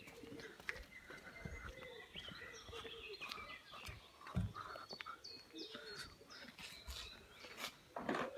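Faint outdoor birdsong, many short chirps and brief whistled notes from several birds, with a few soft low thuds.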